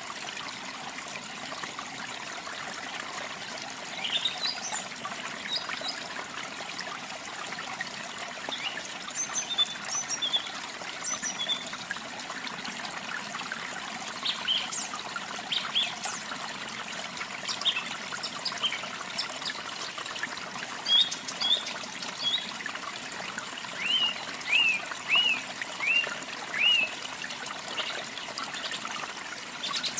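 Steady trickling and splashing of running water from a stream or small waterfall, with small songbirds chirping over it in short scattered notes. Near the end one bird gives a quick run of about five falling chirps.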